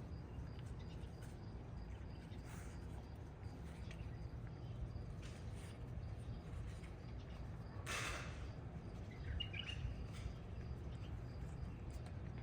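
Outdoor morning ambience: a steady low rumble with faint bird chirps and light clicks, and a brief rustle about eight seconds in.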